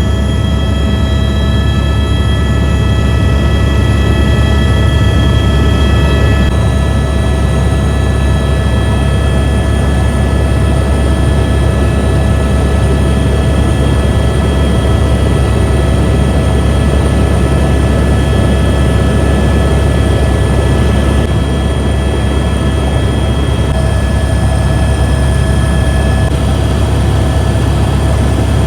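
Helicopter turbine engine and rotor running steadily: a loud low drone with several steady high whining tones, a few of which shift slightly about six seconds in.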